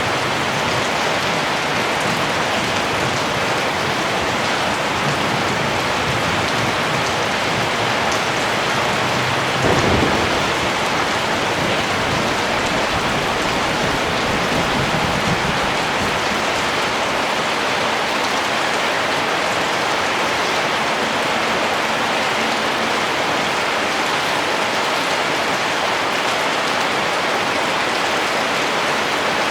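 Steady, heavy rain falling. About ten seconds in, a low rumble of thunder swells suddenly and dies away over the next several seconds.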